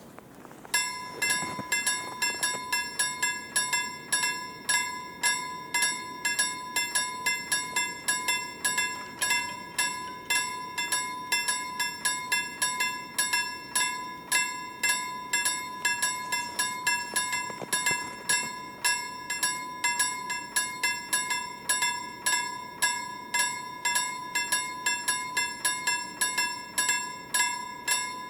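Railway level-crossing warning bell starting to ring, a steady electronic ding repeated about twice a second, signalling that a train is approaching.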